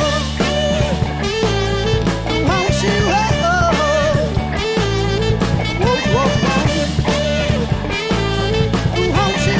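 Live band playing: a wavering, bending lead melody over bass and drums, between sung lines.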